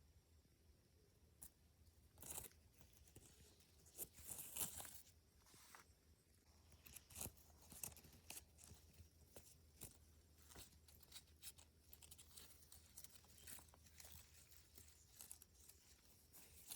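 Faint, irregular rustling, crackling and snapping of blackberry bramble leaves and canes as wild blackberries are picked by hand. The rustling is loudest and densest about four to five seconds in.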